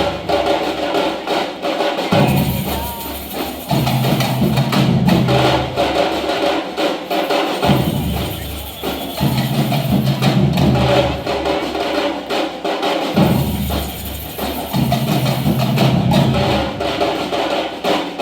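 Samba percussion band playing a drumming groove: deep bass drums come and go in a repeating phrase under busy higher drums and sharp clicking percussion.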